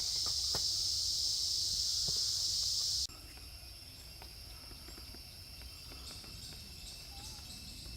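Steady high-pitched buzz of forest insects that cuts off suddenly about three seconds in, leaving quieter forest ambience with faint scattered ticks and a low rumble.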